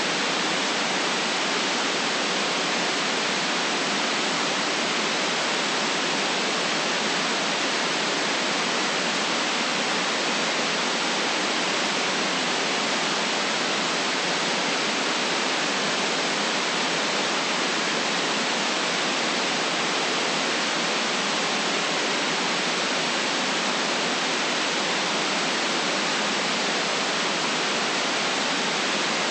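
Steady synthetic white noise for sleep: an even, unchanging hiss with little deep bass and nothing in the highest treble.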